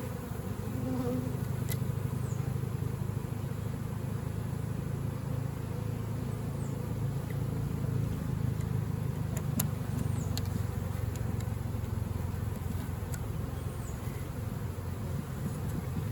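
Honeybees from an opened swarm trap buzzing steadily in a low, even hum, with a few faint ticks.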